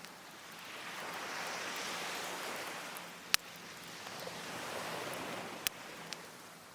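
Waves washing in on the shore, swelling twice, with a wood fire crackling and two sharp pops from the burning logs.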